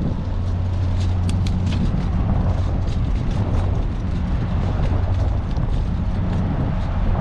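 Steady low rumble of city traffic mixed with wind on the microphone during a bike ride, with a few brief clicks between one and two seconds in.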